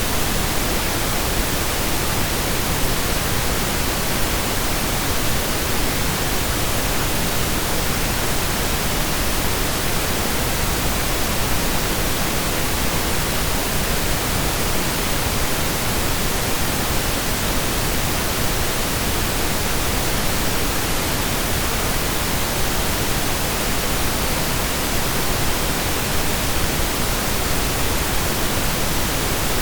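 Synthesized pink noise: a steady, even hiss with equal energy per octave, like steady rain or a waterfall, with no changes, loops or fades.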